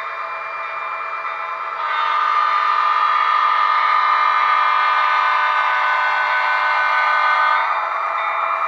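Train horn sounding one long blast of several held tones, louder from about two seconds in until just before the end.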